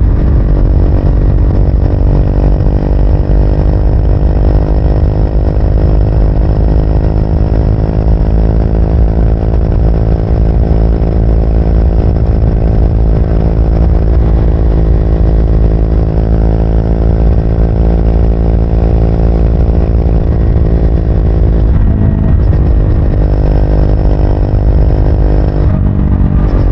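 Triumph Speed 400's single-cylinder engine running under way, its pitch climbing slowly and steadily. About 22 seconds in the note breaks and shifts, as at a gear change, then climbs again, with another break near the end.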